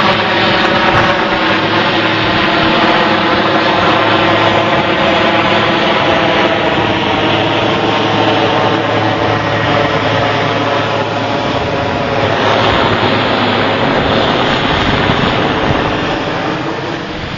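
Aircraft engine drone, a steady hum with an even ladder of tones over a dense rushing noise that eases slightly near the end.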